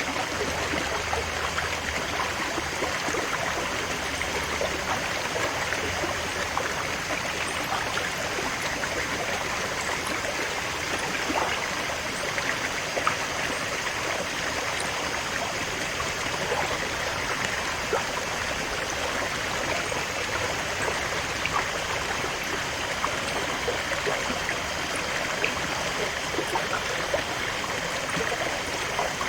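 Stream water flowing steadily over rocks, an even rushing with small splashes and trickles.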